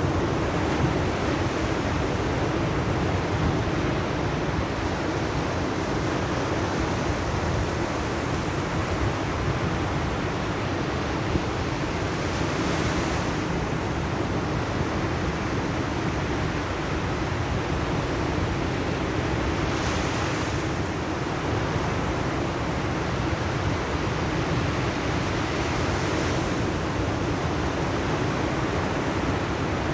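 Sea surf washing steadily on the shore, with wind noise on the microphone; three louder waves swell in during the second half.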